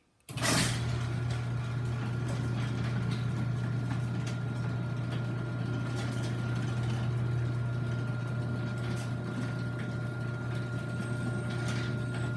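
Chamberlain chain-drive garage door opener raising the door: the motor starts with a click just after the start, then runs with a steady hum and a thin steady whine.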